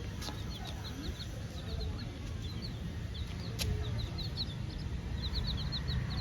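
Young chicks peeping: many short, high cheeps that come faster and more densely in the second half, over a steady low rumble. A single sharp click sounds about three and a half seconds in.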